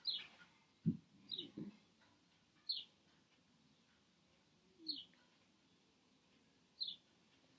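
A bird chirping faintly: short falling chirps repeated about every two seconds. There is a soft low thump about a second in.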